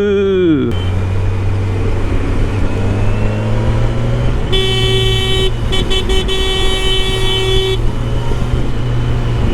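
Kawasaki Ninja 1000SX's inline-four engine running steadily under way, with road noise. A vehicle horn sounds for about three seconds, with a brief break, starting about four and a half seconds in.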